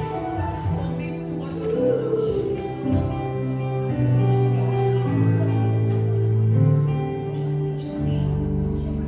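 Gospel worship music: a band with sustained keyboard chords over a moving bass line and light percussion, with some singing.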